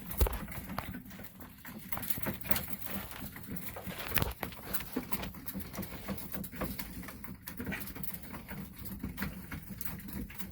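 Racing pigeons in a loft cooing, with many irregular light clicks and taps among them.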